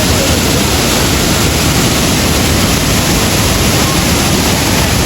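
Steady, loud rushing noise with no rhythm or pitch.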